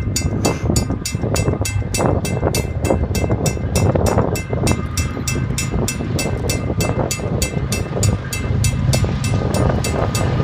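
Train passing with a continuous low rumble, over which a rapid, even ringing repeats about four times a second.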